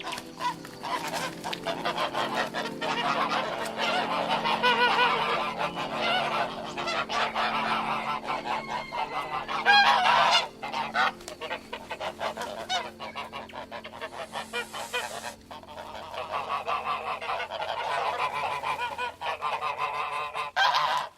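Geese honking, many calls overlapping almost without a break, with a brief lull about two-thirds of the way through.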